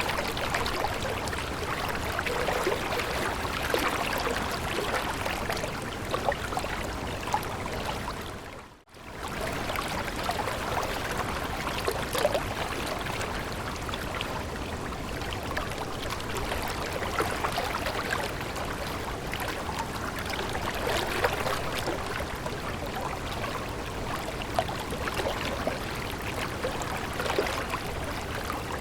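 Stream water running and trickling steadily, with a brief drop almost to silence about nine seconds in.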